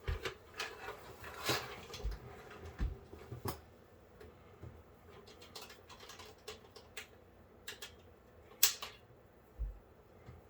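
Scattered clicks, rattles and soft knocks of power-supply cables and their plastic connectors being pulled out of a PC case, with one sharper click about nine seconds in.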